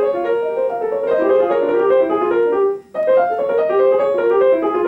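Acoustic piano played in a quick run of short notes in the middle register; the playing breaks off for a moment near three seconds in and starts again.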